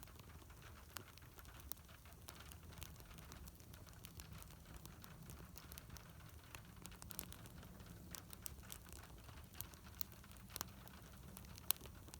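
Wood fire crackling: scattered sharp pops and snaps over a faint low rumble, with one louder pop near the end.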